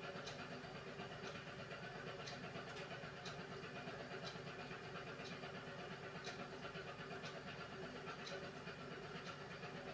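Beko WMY81283LMB2 washing machine running a hand wash cycle: a faint, steady motor hum with light clicks roughly once a second as things knock inside the turning drum.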